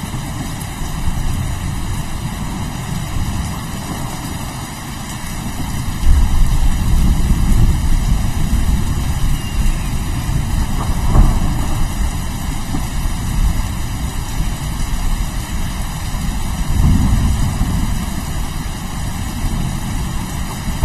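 Steady rain with rolling thunder: a low rumble swells about six seconds in and again near the end, with a sharper clap of thunder about eleven seconds in.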